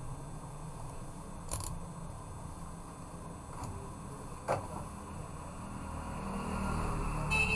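Three short, sharp clicks, a few seconds apart, over a steady low hum.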